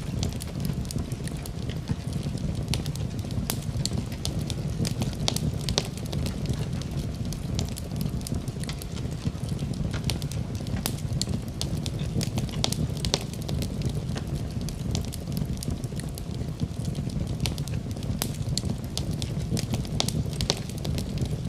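Fire in a fireplace crackling, with frequent sharp irregular pops over a steady low rumble of the flames.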